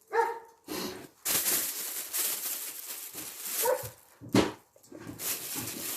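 German shepherd giving short high yelps, one at the start and another about three and a half seconds in, amid rustling noise, with one loud sudden sound a little after four seconds.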